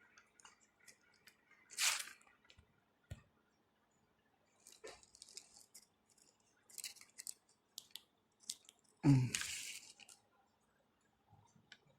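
Handling noise of in-ear earphones: scattered small clicks and rustles, with short hissy bursts about two and nine seconds in.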